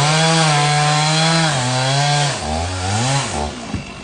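Chainsaw cutting through the tree's limbs, running at a steady high pitch under load. About halfway through it drops off and is revved up and down.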